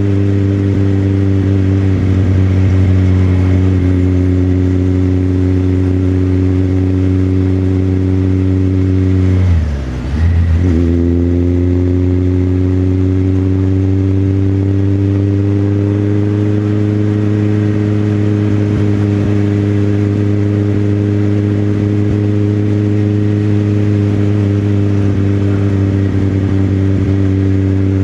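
Motorcycle engine running steadily under way. About ten seconds in, the revs drop sharply and recover within a second, then climb slowly.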